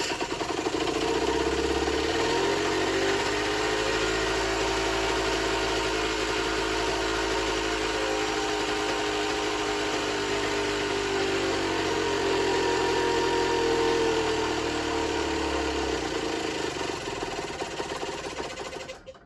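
Generic Trigger SM 50cc two-stroke moped engine running at idle on the stand, its pitch sagging and rising a little. It is still not running 100%. The sound tails off over the last few seconds.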